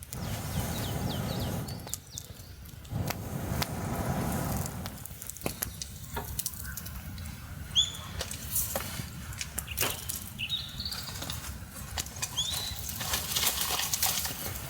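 Two rustling bursts of about two seconds each, then scattered clicks and knocks, while a small bird gives a few short chirps in the second half.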